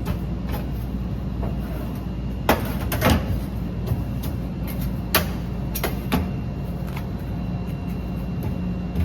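Street ambience: a steady low vehicle engine hum, with scattered sharp knocks and clacks.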